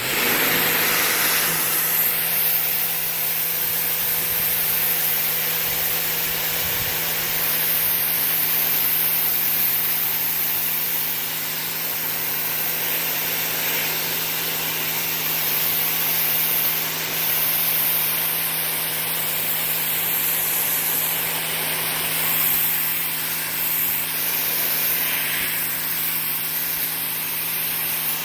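Sun Joe SPX3000 14.5-amp electric pressure washer running steadily, its motor humming under the hiss of a narrow 15-degree jet blasting a concrete sidewalk. The sound starts abruptly as the trigger is pulled.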